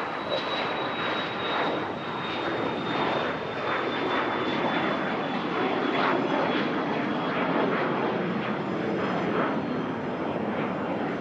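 Fixed-wing aircraft engines running at high power as the plane passes: a steady roar with a thin high whine that slowly falls in pitch.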